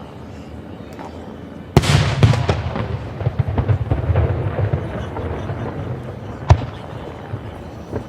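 Fireworks display: a loud aerial shell bursts about two seconds in and is followed by a few seconds of rapid crackling and rumbling that fades, then another single sharp bang near the end.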